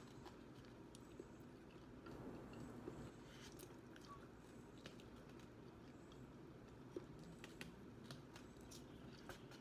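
Faint biting and chewing of fried hot and spicy chicken wings: soft mouth sounds with a few small crisp clicks, over a low steady room hum.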